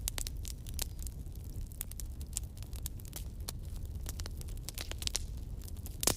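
Wood campfire crackling, with frequent sharp pops and snaps over a low steady rumble; one louder pop near the end.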